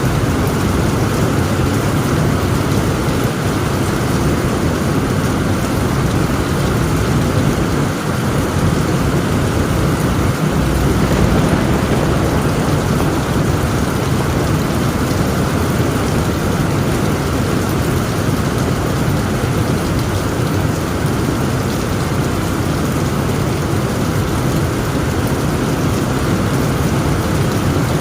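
Heavy rain falling steadily on a tent roof, with thunder rumbling low underneath and swelling slightly about eleven seconds in.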